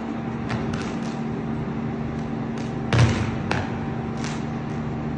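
Overhead power lines touching and arcing, giving a series of sharp cracks and pops over a steady hum. The loudest, a crack with a low thump, comes about three seconds in.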